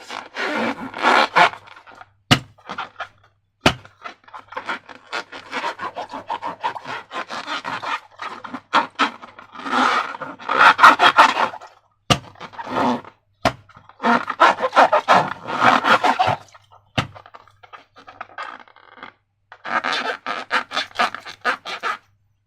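Slime being worked, sticky crackling and scraping in bursts of a second or two, with a few sharp single clicks between them.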